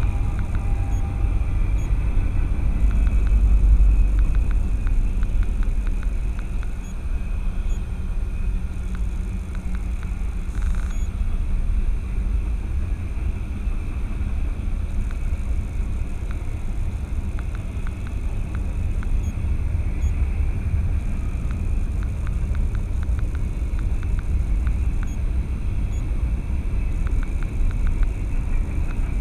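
Steady low vehicle rumble, loudest about four seconds in, with faint scattered ticks over it.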